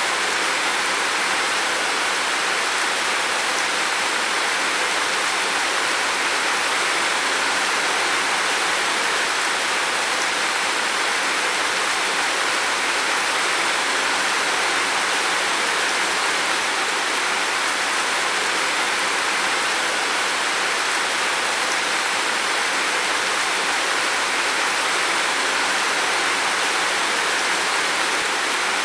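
Heavy rain falling on a roof, a dense, steady hiss of drops with no let-up.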